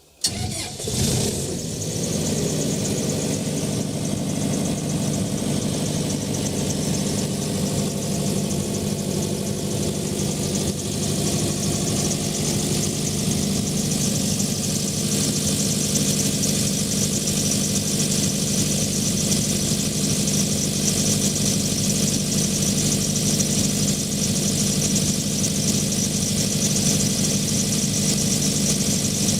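John Deere 4045HF four-cylinder turbodiesel of a 60 kVA generator set starting up just after the beginning, then running steadily.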